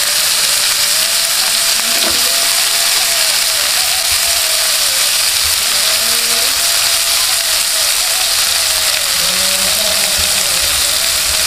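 Shrimp sizzling steadily in hot oil and spice paste in a nonstick double-sided flip pan, fully cooked.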